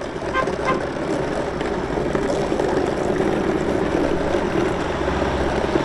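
An engine running steadily with a dense, even rumble, growing a little louder over the first couple of seconds.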